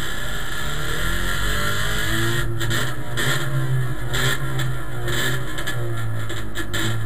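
Trabant race car's engine heard from inside the cabin, running and revving lightly, its pitch rising and falling as the car rolls slowly, with a few knocks and rattles from the car body.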